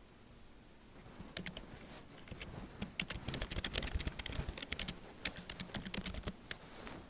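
Typing on a computer keyboard: a fast run of keystroke clicks starts about a second in and stops shortly before the end.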